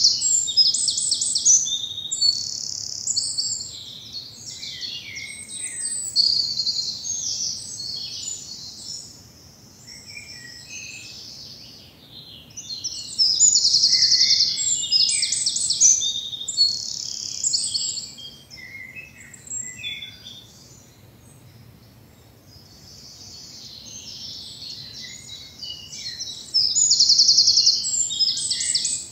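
Woodland songbirds singing in spring. One nearby bird sings loud, high, rapid trilling phrases three times, at the start, about halfway through and near the end, and fainter calls from other birds fill the gaps.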